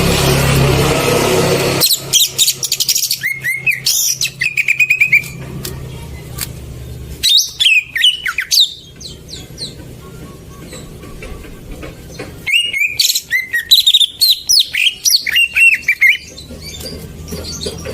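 Greater green leafbird (cucak ijo) song in three bursts of rapid chirps and sweeping whistled notes, with short pauses between them. It is lure song, played to get a silent leafbird to start singing. A loud rushing noise fills the first two seconds before the song.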